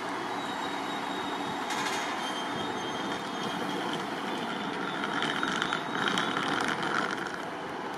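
ScotRail diesel multiple unit running slowly through the station. High-pitched wheel squeal comes in about five seconds in and is loudest for a couple of seconds.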